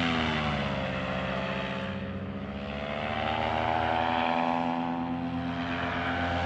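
Paramotor engine and propeller running in flight, the revs dropping about a second in, then climbing back up a few seconds later and holding steady.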